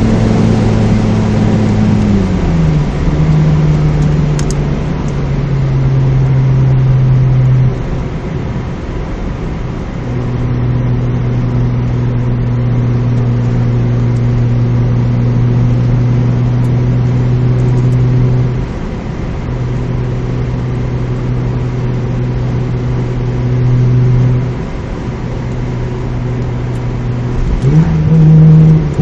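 Mazda MX-3 GS's 1.8-litre K8 V6 heard from inside the cabin through a 2 1/4 in exhaust with a test pipe in place of the catalytic converter and a Magnaflow Street Series muffler. It drones loudly, holding steady pitches for several seconds at a time. The pitch drops a couple of seconds in, dips briefly a few times, and climbs near the end.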